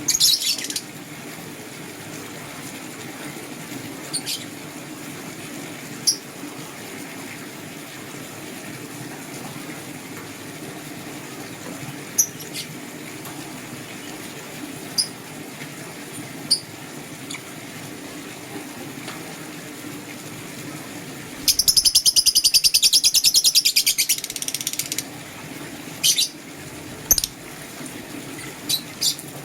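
Lovebirds chirping: scattered short, sharp high chirps, and one loud, rapid chattering trill about three seconds long past the middle, over a steady low background hum.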